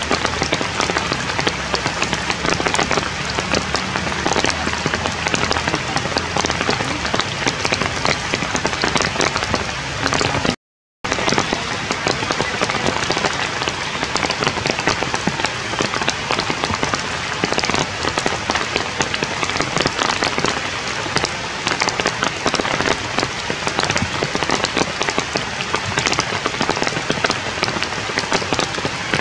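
Steady, dense patter of rain and drips on forest leaves, many fine ticks at an even level. The sound drops out completely for a split second about eleven seconds in.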